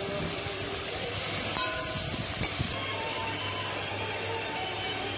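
Cubed potatoes and sliced onions frying in oil in an aluminium kadai, a steady sizzle. Two sharp clicks come about one and a half and two and a half seconds in.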